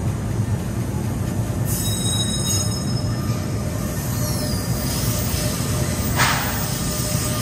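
NJ Transit train moving with a steady rumble. High-pitched wheel squeal comes about two seconds in, and a short burst of hiss about six seconds in.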